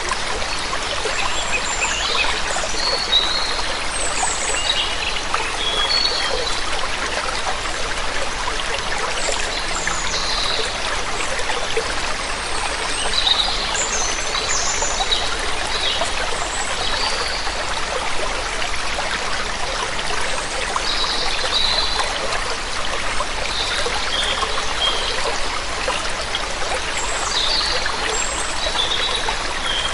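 Waterfall water running steadily in an even rush, with songbirds giving short, high chirps scattered over it throughout.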